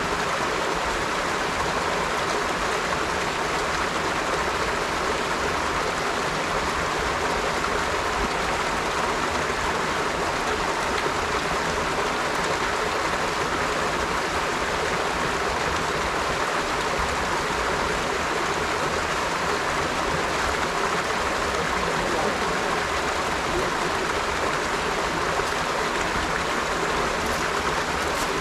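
River water flowing steadily over rocks: a continuous, even rushing with no breaks.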